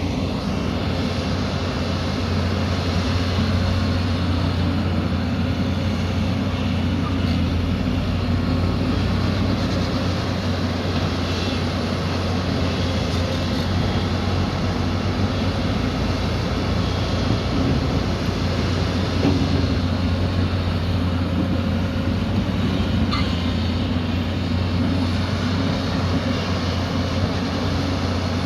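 Diesel engine of heavy earthmoving equipment running steadily, a continuous low drone with a few faint knocks.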